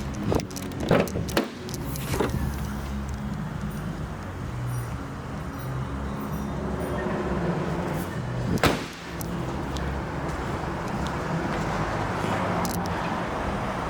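Audi S5's engine idling with a steady low hum, with a few sharp clunks near the start and a louder single clunk a little past the middle.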